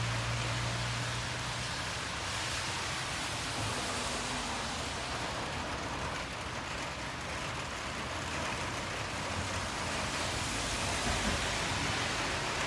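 Steady hiss of rain together with traffic on a wet road. A low engine hum at the start fades out about a second in.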